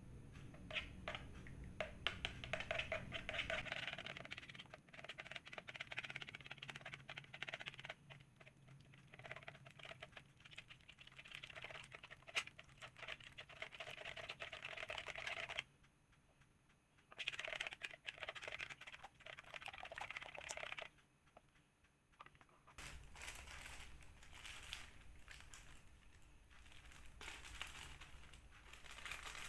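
Light, rapid clicking and rustling in several stretches, broken by two short quiet gaps.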